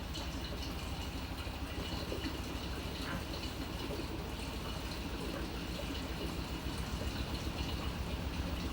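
Water moving steadily inside the tub of a Panasonic NA-FA100H9 top-loading washing machine during its automatic course, heard from inside the machine with a low rumble underneath.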